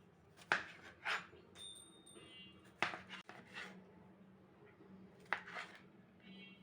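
Objects being handled: a series of sharp knocks and clatters, with brief ringing clinks about two seconds in and again near the end.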